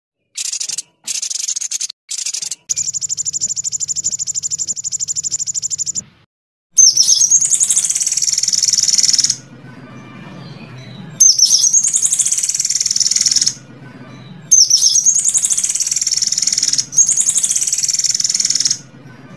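Songbird song in rapid, high trills. A few short bursts come first, then one trill held for about three seconds. Four phrases of about two seconds follow, each opening with a sharp note and running into a fast trill.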